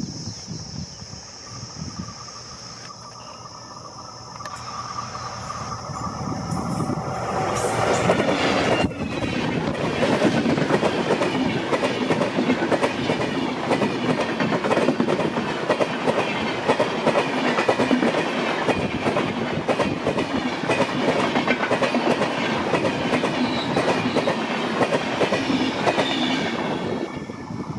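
WDP4D diesel locomotive passing at speed. The sound is quieter at first and grows loud about seven seconds in as the locomotive goes by. Then comes a fast, dense clickety-clack of the coaches' wheels over the rail joints, which cuts off near the end.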